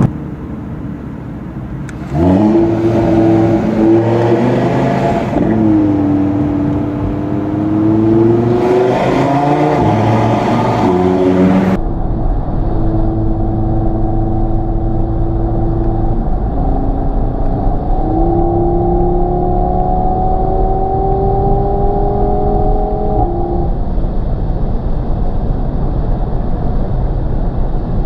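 Audi TT RS 2.5 TFSI turbocharged five-cylinder with the sport exhaust valves open, heard from inside the cabin. It pulls through the gears, the pitch climbing and then dropping at each shift, then cruises with a steady drone that rises slowly. Near the end the engine note gives way to a low road rumble.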